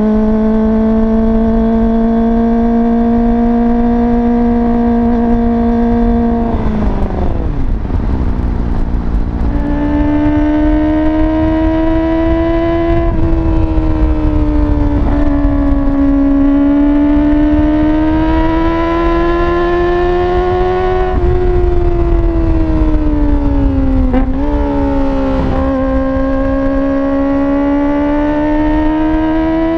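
Kawasaki ZX-25RR's 250 cc inline-four running loud through a slip-on exhaust with no dB killer. The revs hold high and steady, then fall sharply about seven seconds in; from about ten seconds they climb again and rise and fall in long swells, with two quick dips in revs near the end.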